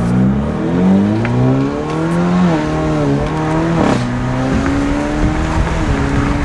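Alfa Romeo Giulia's turbocharged engine through a single straight-pipe exhaust, heard from inside the cabin under hard acceleration. The engine note climbs, dips sharply at upshifts around the middle, then pulls up again steadily.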